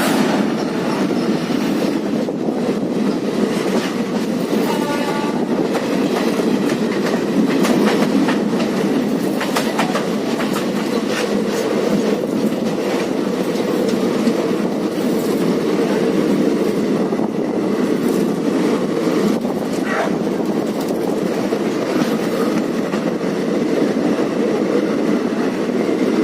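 Passenger train running on the track: a steady rumble with the clickety-clack of wheels over rail joints. A short high tone sounds about five seconds in.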